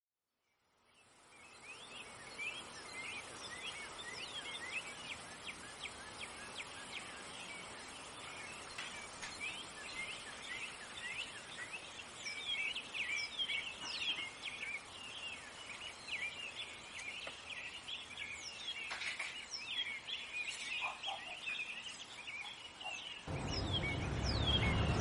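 A dense chorus of many birds chirping, fading in over the first couple of seconds. A louder, fuller sound comes in near the end.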